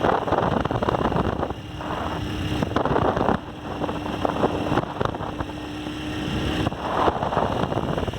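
Wind rushing and buffeting over the microphone. A faint steady hum comes in about two seconds in and fades out near seven seconds.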